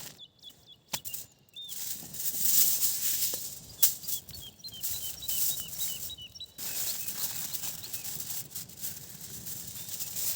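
A small bird calling in a quick series of short, high chirps, about four a second, in two runs. Under it is a rustling hiss with scattered clicks, and one sharp click a little before halfway.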